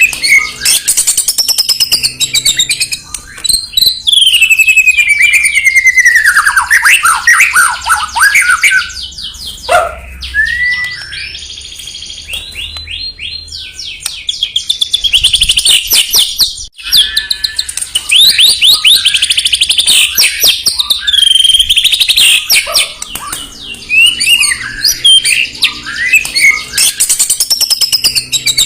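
White-rumped shama (murai batu) singing loudly and without pause: a varied run of rich whistles, sliding phrases and fast trills. It is a lure song (pancingan) played to stir a caged shama into singing.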